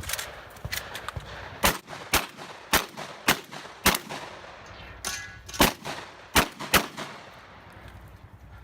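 A string of about ten gunshots in quick succession, roughly one every half second, from a competitor firing during a multigun match stage. The shots stop about seven seconds in.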